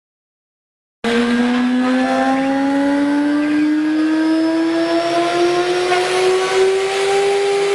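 CNC router spindle motor whining, starting suddenly about a second in, its pitch climbing slowly as the spindle winds up toward speed for cutting acrylic.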